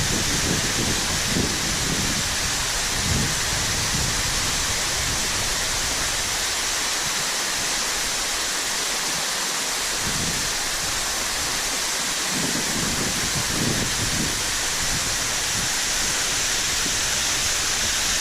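Loud, steady rush of a waterfall in spring runoff, heard close at its base, with a few low bumps near the start and again about twelve seconds in.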